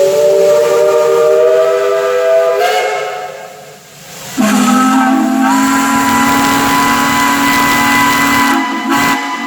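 Two long whistle blasts, each made of several tones sounding together; the first rises slightly in pitch and fades out, the second starts suddenly, lower and steady, and stops near the end.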